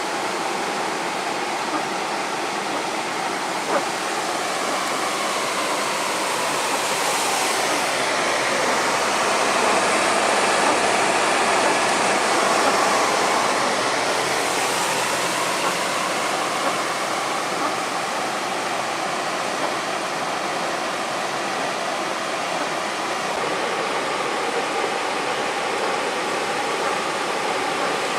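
Heavy rain pouring down steadily. It swells louder for several seconds in the middle.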